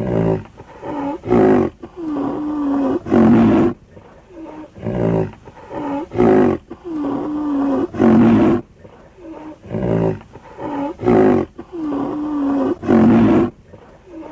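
Southern white rhinoceros calling: a run of loud, pitched calls about every one to two seconds, some held with a bending pitch.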